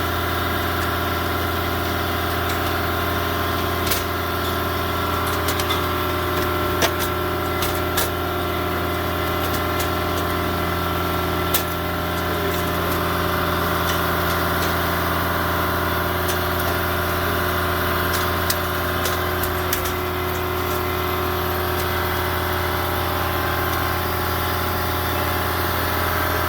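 A steady mechanical hum made of several steady tones, with a few light clicks scattered through it.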